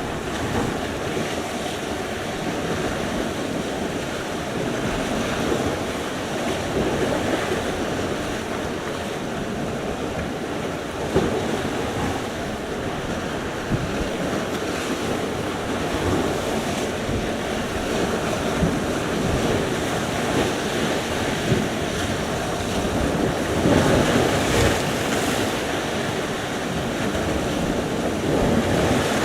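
Sea surf: waves breaking and washing ashore in a continuous rush that swells and ebbs, one wave louder near the end. Wind buffets the microphone throughout, with a couple of brief sharp knocks.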